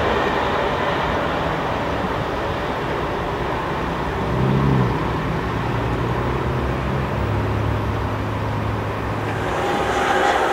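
Italo high-speed electric train passing at speed, a steady rushing rolling noise of wheels on rail and air, with a brief rising tone about halfway through.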